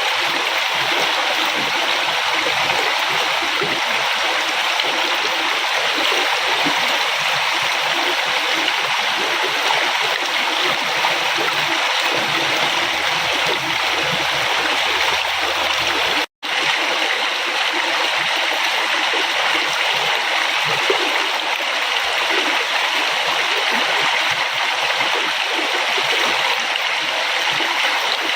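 River water flowing in a steady rushing, babbling stream. It cuts out for a split second about halfway through, then resumes unchanged.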